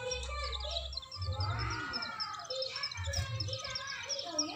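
Male mountain white-eyes calling in quick runs of short, high chirps during a fight between two males.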